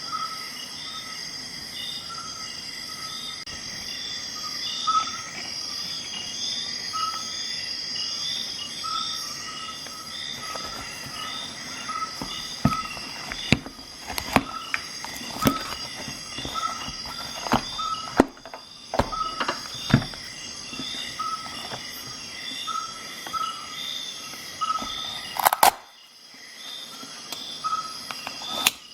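Insects chirping in a steady rhythm, about one and a half chirps a second. Sharp clicks come in a cluster midway, with a louder snap near the end; these are the metal tools of a Swiss Army knife clicking open and shut.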